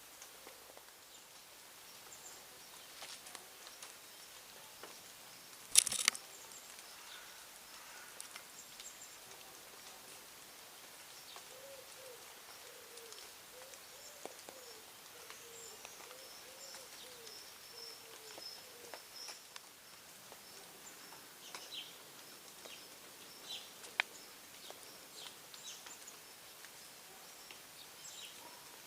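Birds chirping faintly, with a sharp knock about six seconds in and a smaller click later. A run of low, wavering notes comes through in the middle.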